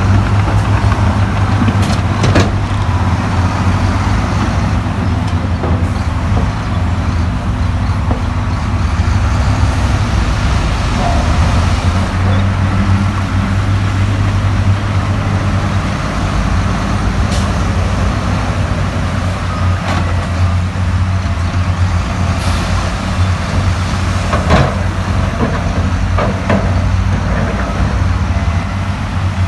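Heavy diesel engine of earthmoving equipment running steadily, with a few sharp knocks.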